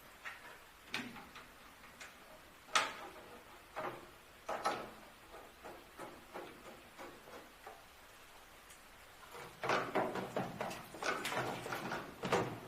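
Scattered knocks and clicks, a few seconds apart, then a busier run of clattering for the last few seconds.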